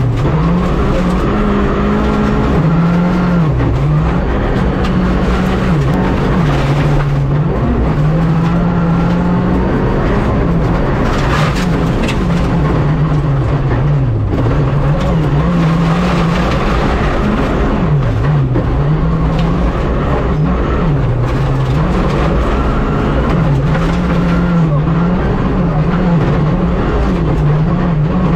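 Rally car engine revving hard at speed, its pitch repeatedly climbing and dropping back as it shifts and lifts through corners.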